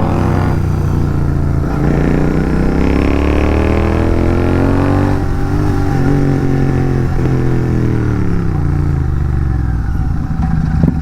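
Royal Enfield Continental GT 650's parallel-twin engine through an aftermarket exhaust with the catalytic converter taken out of the bend pipe, heard while riding: the engine pulls up in pitch for about three seconds, then falls away steadily as the throttle is rolled off and the bike slows.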